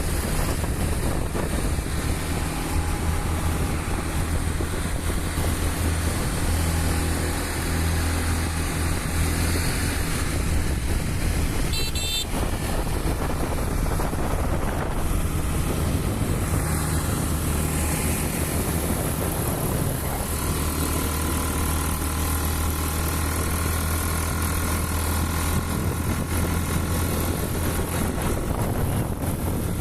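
Motorbike engine running at a steady, low drone while riding, with rushing road and air noise; a brief rattle or click about twelve seconds in.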